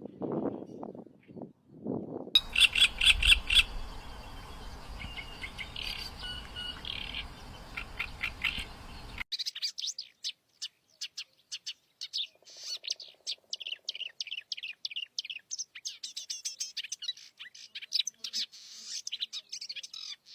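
Oriental reed warbler singing: loud, harsh, rapidly repeated chattering notes in quick runs. The recording cuts abruptly about nine seconds in, from a take with steady background hiss to a cleaner one of faster, denser song; a few low sounds come in the first two seconds.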